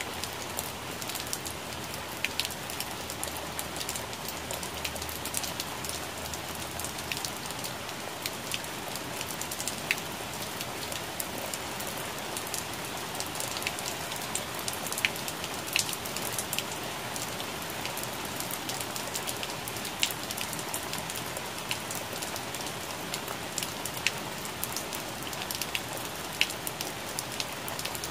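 Rain falling on plant leaves: a steady hiss dotted with many sharp, irregular drop taps, a few of them louder than the rest.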